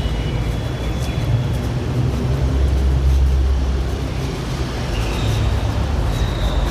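City street traffic: a steady low rumble of passing cars and buses, swelling for a moment a few seconds in. A thin, faint high tone sounds briefly near the start and again in the second half.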